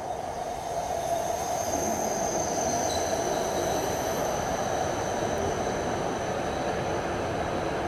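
E5 series Shinkansen pulling into the platform at low speed: a steady rumble of the cars passing close by, with a thin high whine over it. The rumble grows louder in the first second as the nose reaches the microphone, then holds steady.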